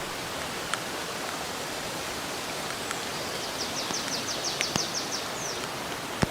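Steady rain in a forest, with a few drops tapping sharply nearby, the last and loudest just before the end. About halfway through, a bird sings a quick trill of a dozen short, high, falling notes lasting about two seconds.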